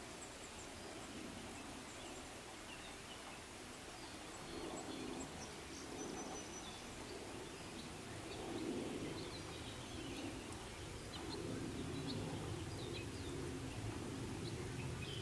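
Quiet outdoor ambience: a steady hiss with a low rumble underneath, and scattered short, high bird chirps.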